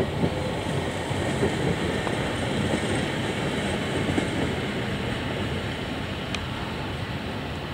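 Stadler Flirt electric multiple unit running out of the station: a steady rumble of wheels on rails with a light clickety-clack.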